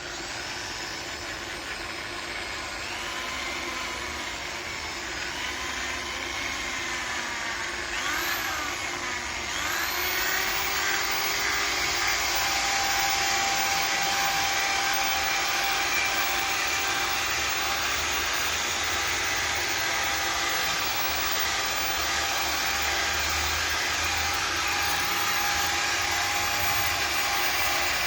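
Handheld electric tool's motor running continuously. Its pitch shifts up and down over the first ten seconds, then it settles into a steady, louder hum.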